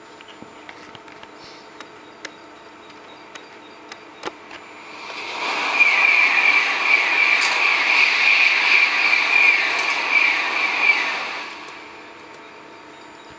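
Soundtrack of a video of a Shinkansen N700A bullet train passing at speed, played back over a speaker: a rushing noise swells in about five seconds in, holds for about six seconds with a bright hiss and many short falling whistles, then fades away.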